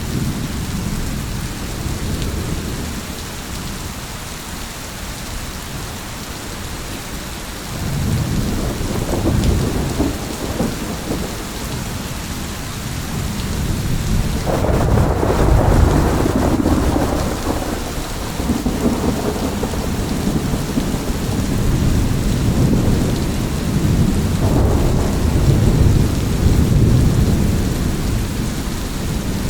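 Steady rain with thunder rumbling: deep rolling rumbles swell up about a quarter of the way in and again near the middle, the middle one the loudest, with another toward the end.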